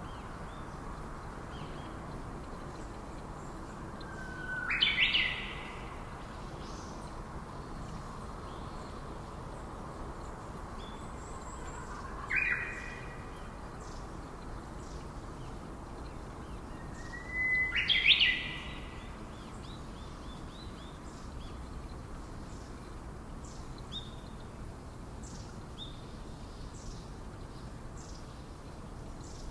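Rainforest bird calling three times, each call a short note ending in a sharp upward sweep, about five, twelve and eighteen seconds in. Faint high chirps from other birds and a steady hiss sit underneath.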